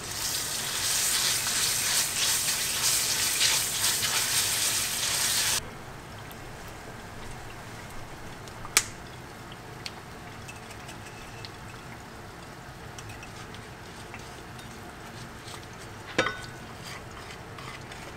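Miso and chopped garlic sizzling loudly in oil in an iron frying pan while a wooden spatula stirs them. The sizzle cuts off suddenly about five and a half seconds in, leaving a quiet pan with a few sharp taps and scrapes of the spatula.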